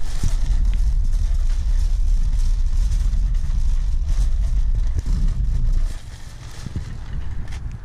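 Car engine heard as a loud low rumble, which eases off about six seconds in.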